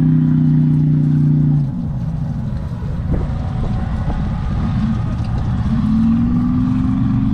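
Fuel-injected four-cylinder engine of an Oreion Reeper running loud and steady at raised revs. About a second and a half in it drops back to a rougher, low idle, then it revs up again to a held note near the end.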